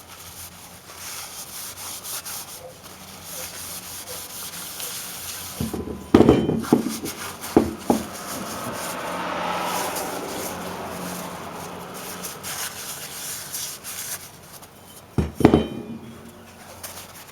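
A rag or paper towel rubbing and wiping honing oil out of a brake caliper's piston bore, a fast scratchy rubbing, broken by a few sharp knocks of the caliper being handled about six seconds in and again near the end.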